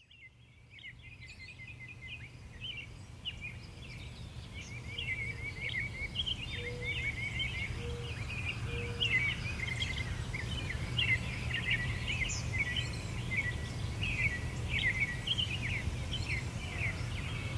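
Many small birds chirping rapidly and continuously over a steady low outdoor rumble, fading up over the first few seconds.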